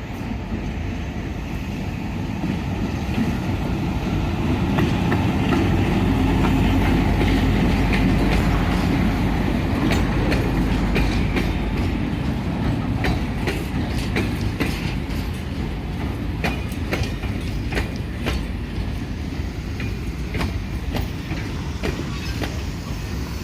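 Train passing close by on the tracks: a low rumble swells to its loudest about six to nine seconds in and then slowly eases, while the wheels click repeatedly over the rail joints as the cars roll past.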